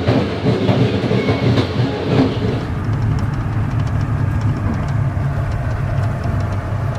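Passenger train running, heard from inside a carriage: a steady low rumble of the wheels on the track. A brighter rattle over the rumble drops away about three seconds in.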